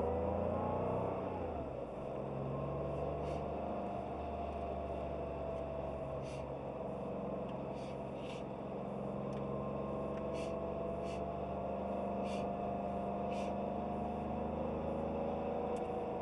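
Porsche 911 Carrera 3.2's air-cooled flat-six engine running at a gentle cruise, its pitch rising over the first second and dropping about two seconds in, then holding a steady drone. A few faint clicks come through the middle.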